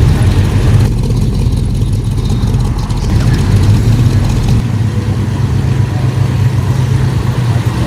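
A car engine running steadily with a loud, low rumble.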